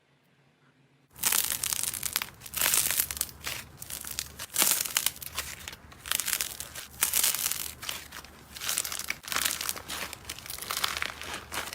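Slime being squished and stretched by hand: a dense, irregular run of crackling and popping that starts about a second in, after a moment of near silence.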